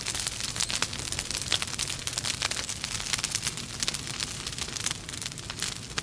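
Wood fire in a fireplace burning steadily: a continuous hiss with dense, irregular crackles and pops from the burning logs.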